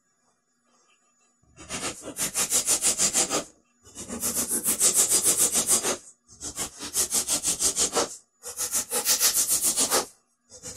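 Claw hammer driving small 1-inch wire nails through a thin plywood back panel into the cabinet: rapid taps, about eight a second, in four runs of about two seconds with short pauses between.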